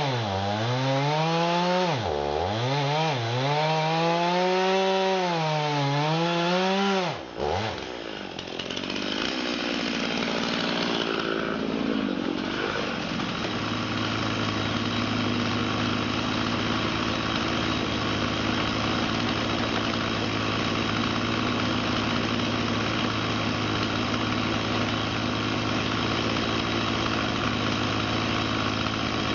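Engine of a home-built bandsaw mill labouring through a cut in fir, its pitch dipping and recovering every couple of seconds under load. About seven seconds in it drops off suddenly, then settles into a steady low idle.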